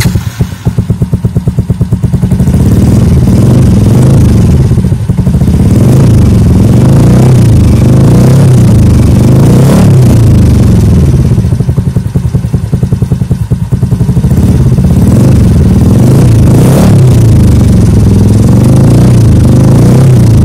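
Yamaha Mio i 125 scooter's single-cylinder four-stroke engine running through an aftermarket Akrapovic-style replica muffler with its silencer insert fitted. It is loud, with quick exhaust pulses at idle, and is revved up several times, dropping back toward idle in between, most clearly about twelve to fourteen seconds in.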